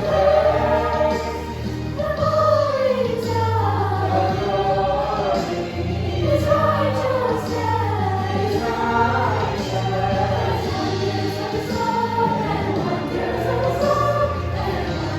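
A choir singing a song over low, sustained accompanying notes that change every second or two.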